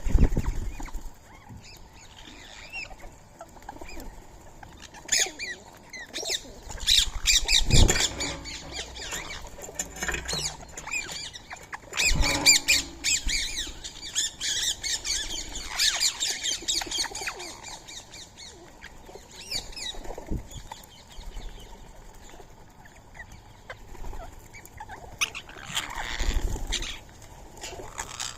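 A flock of rose-ringed parakeets at a feeding spot: wings flapping as birds land and take off, several times loudly, among repeated sharp, high calls and small clicks.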